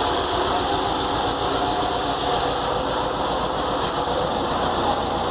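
Volkswagen Fusca (Beetle) air-cooled flat-four engine idling steadily with a fast, even mechanical whirr. The owner says some noise remains even after cleaning the fan shroud and alternator, probably from a worn bearing inside the alternator.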